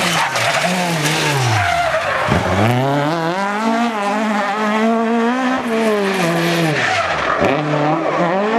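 Rally car engine at high revs, its pitch dropping sharply and climbing again twice, with tyres skidding on the road.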